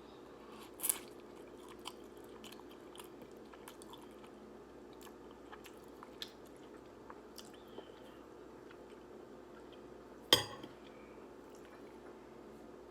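Close-up eating sounds of instant ramen noodles: small scattered chewing clicks, with two louder sharp sounds, one about a second in and one near the end.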